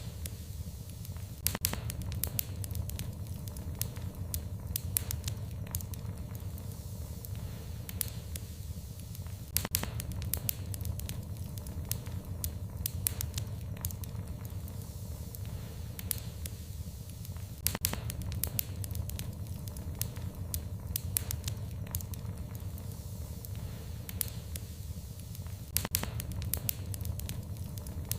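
Wood fire crackling in a fireplace, with irregular sharp pops over a steady low rumble.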